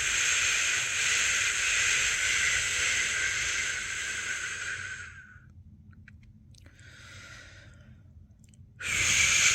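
A person's long, steady 'shhh' shushing, the soothing sound used to settle a newborn to sleep. It fades out about five seconds in, and after a short, nearly silent pause a new shush starts abruptly near the end.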